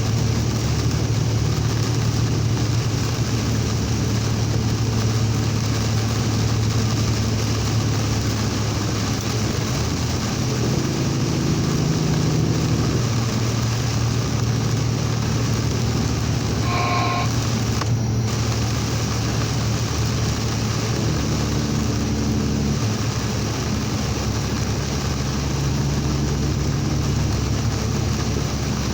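Truck engine droning steadily while driving on the highway, heard from inside the cab, under a constant wash of heavy rain, wind and tyre noise. The engine note shifts slightly twice, and a short electronic beep sounds about two-thirds of the way through.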